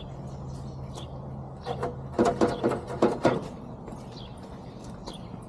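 A flurry of knocks and rattles lasting about a second and a half, starting a little under two seconds in, over a steady low hum, with faint bird chirps.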